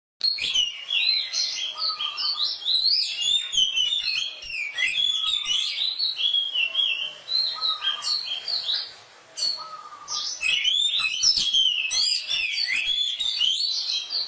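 Oriental magpie-robin (kacer) singing a fast, varied song of whistles and chirps, with a short lull about nine seconds in.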